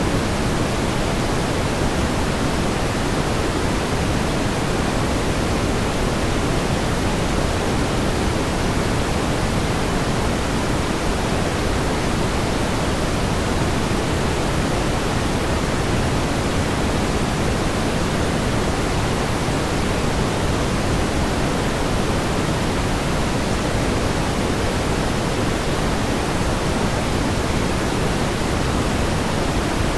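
Steady pink noise: an even, unchanging hiss weighted toward the low end, with no events or changes.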